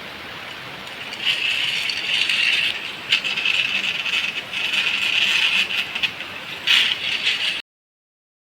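Battery-powered plastic toy train running, with a rattling, whirring mechanical sound that starts about a second in and comes and goes unevenly.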